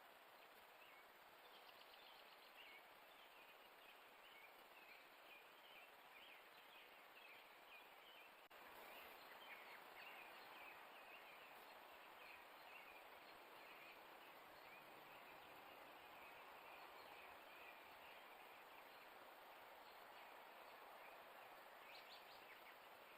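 Faint birds chirping and calling over a steady background hiss, with the background level stepping up slightly about eight and a half seconds in.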